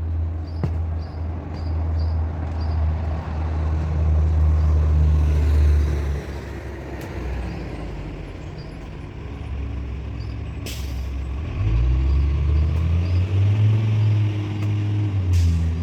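Mini truck's engine running, easing off about six seconds in, then revving up again in pitch and loudness about twelve seconds in. Two sharp clicks, one just before the rev-up and one near the end.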